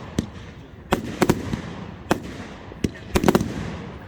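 Fireworks display: a rapid, irregular string of sharp bangs from bursting shells, a dozen or so in four seconds, each with a short rumbling echo.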